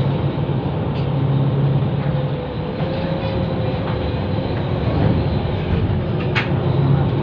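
River Class ferry's diesel engines running with a steady low drone, with a sharp click about six seconds in.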